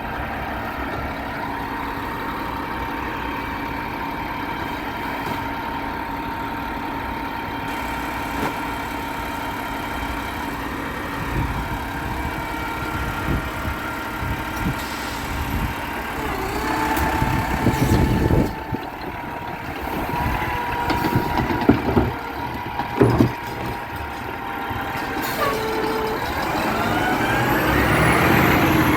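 Garbage truck's diesel engine running steadily, then louder in the second half with several sharp clunks, and the engine pitch rising near the end as it revs up.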